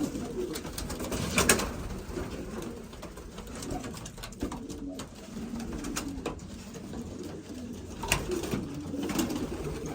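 Racing pigeons cooing repeatedly, with a couple of sharp knocks: a loud one about a second and a half in and another around eight seconds.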